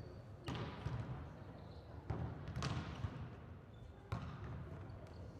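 A volleyball being struck and bouncing during a rally: about four sharp hits with a short echo of a large hall, over a low steady hum.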